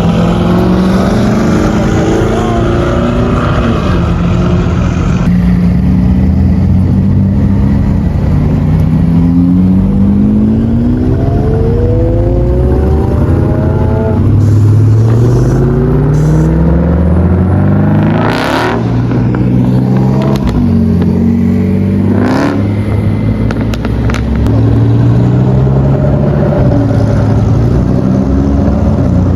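Car engines accelerating hard one after another, each pitch climbing through the revs and falling back at the gear changes as the cars pull away and pass. Two brief sharp bursts cut through at about two-thirds of the way in.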